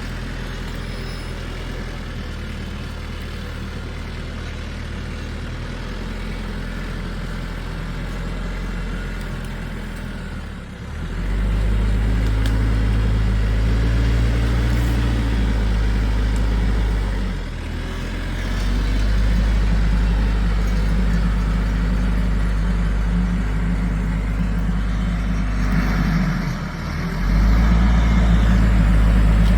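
A large engine running steadily at a low pitch. It grows louder about a third of the way in, dips briefly twice, and rises again near the end, as if it were taking on load.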